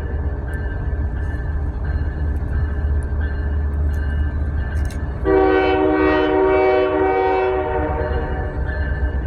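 Locomotive horn sounds one blast of about two and a half seconds, a chord of several tones, starting a little past halfway, over the steady low rumble of a running train.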